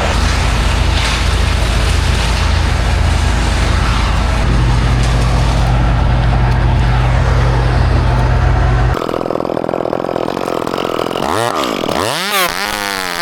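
A large engine runs steadily with a heavy low rumble, cutting off abruptly about nine seconds in. Near the end a chainsaw revs up and down several times.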